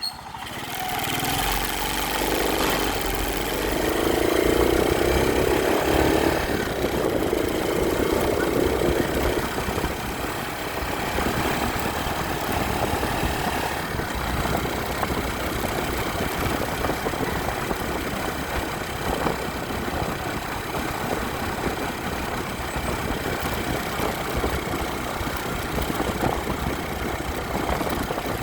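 Motorcycle engine running, swelling up just after the start and loudest between about four and nine seconds in, then holding a steady drone.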